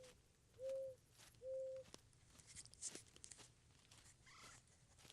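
Faint footsteps crunching on frozen forest ground, with two short steady hum-like tones of the same pitch about a second in.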